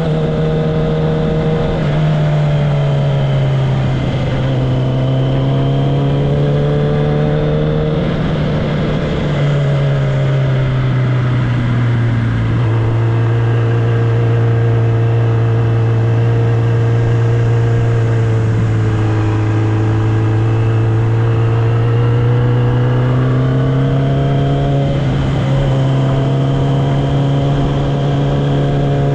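Kawasaki ZX-10R inline-four motorcycle engine and exhaust under way at a fairly steady road speed. The pitch drops a little twice in the first twelve seconds, holds level for about ten seconds, then rises a step near the end.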